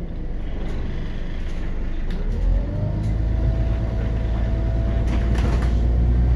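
Scania CN94UB Omnicity city bus with its Scania DC9 diesel and ZF automatic gearbox, heard from inside the cabin, pulling away and accelerating. The engine rumble swells about two and a half seconds in, while a whine rises and then holds a steady pitch.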